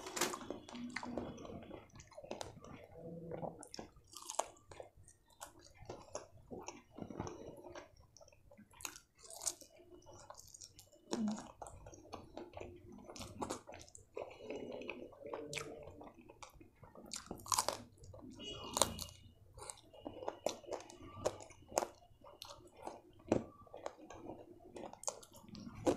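A person chewing and biting fried chicken and spiced rice close to the microphone, with many irregular crunches and mouth clicks.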